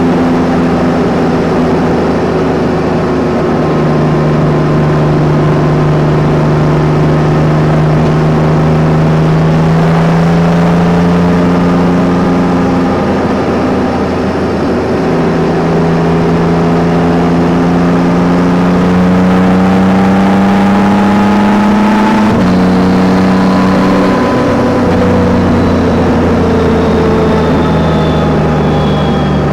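Yamaha Tracer 9 GT's 890 cc inline-three engine pulling steadily, its pitch climbing slowly, with a sharp drop in pitch about 22 seconds in as it shifts up a gear.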